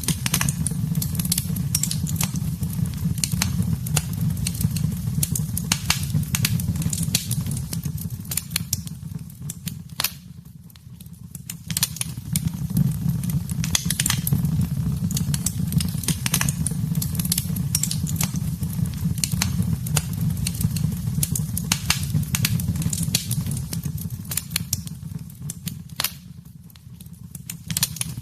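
Wood fire in a fireplace crackling, with frequent sharp pops and snaps over a steady low rumble of the flames. The sound briefly fades and returns twice, about a third of the way in and near the end.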